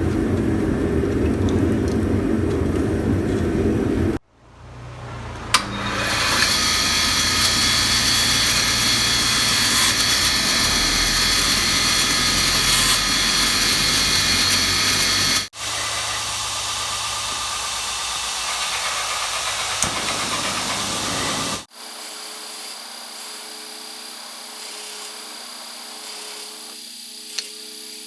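Electric workshop power tools running in several short cut-together shots. About four seconds in, a machine spins up and then runs steadily with a high whine. Near the middle and again later the sound changes abruptly to other steady running.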